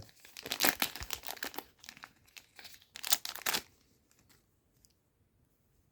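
Trading card booster pack wrapper being torn open and crinkled by hand, with the loudest rips about half a second in and again around three seconds in.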